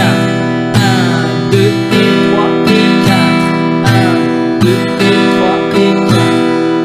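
Acoustic guitar strumming chords in a steady, repeating campfire rhythm, down, down, up, up, down strokes played with the fingernails of the index (down) and thumb (up).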